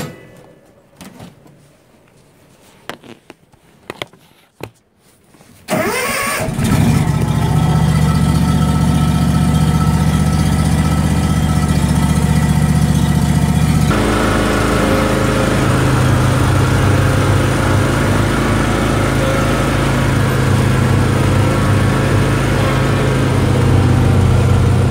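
John Deere X310 garden tractor engine starting after a few seconds of quiet with light clicks, its pitch rising briefly as it catches, then running steadily and loudly. About halfway through its note changes and it runs on at the new, steady setting.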